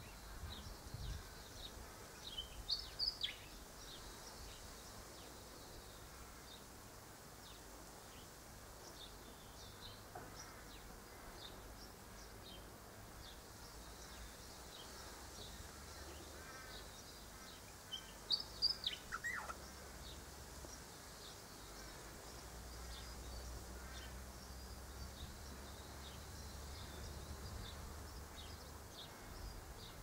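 Two short bursts of sharp, high bird calls, about three seconds in and again around eighteen seconds in, the second ending in a falling note, over a faint steady low rumble.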